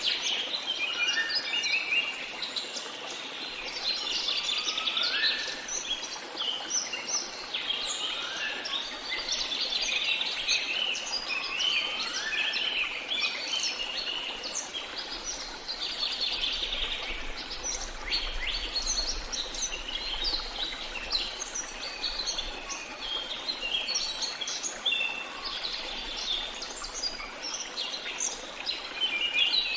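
A chorus of many songbirds chirping and singing over one another, with one bird repeating a short rising call four times, about every three and a half seconds, in the first half.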